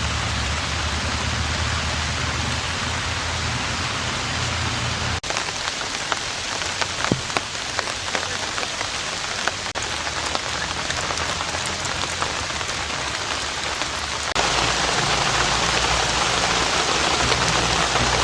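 Heavy rain falling steadily, a dense hiss with individual drops ticking close by. The sound shifts abruptly about five seconds in and again about fourteen seconds in, getting louder for the last few seconds.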